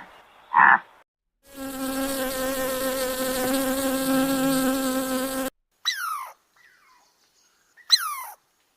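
Insect buzzing, a steady hum for about four seconds that cuts off abruptly, followed by two short calls that each sweep quickly downward in pitch.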